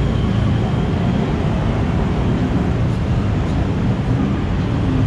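Steady low rumble of road vehicle noise, with an even hiss above it and no distinct events.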